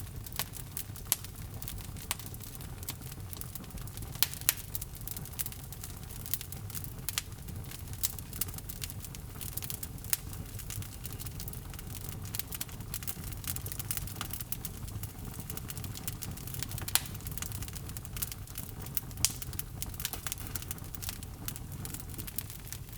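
Log fire burning in a fireplace, with a steady low rumble of flame and frequent irregular crackles and sharp pops from the burning wood, a few louder pops standing out.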